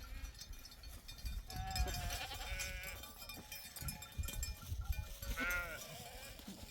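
Sheep bleating: a wavering bleat about one and a half seconds in and a shorter one about five and a half seconds in.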